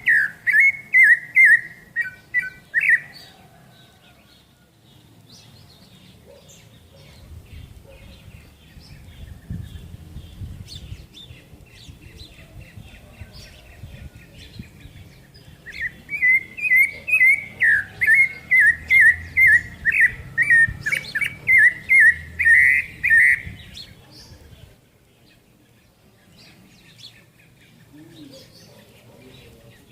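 A songbird singing loud runs of rapid repeated whistled notes, about two a second, in one phrase at the start and a longer one about halfway through, with fainter bird chirps in the gaps.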